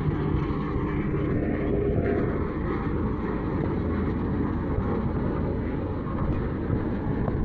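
Road roller's diesel engine running with a steady low rumble.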